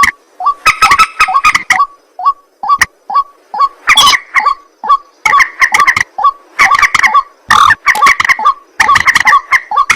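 Rail birds calling: a loud, unbroken run of short harsh croaking notes, several a second, that crowd into faster clusters from about four seconds in.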